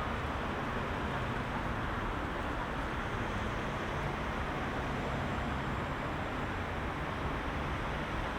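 Heavy rush-hour city traffic: a steady, even din of many vehicles' engines and tyres, with no single vehicle standing out.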